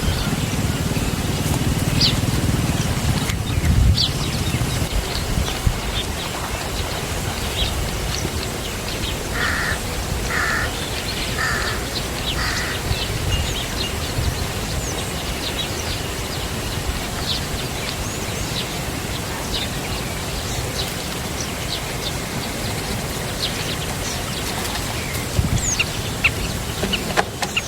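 Birds chirping and calling over a steady background hiss, with a run of three short calls about ten seconds in.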